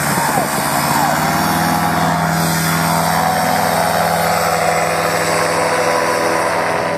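Paramotor engine running steadily at high throttle during a takeoff run, pitch rising slightly in the first second and then holding.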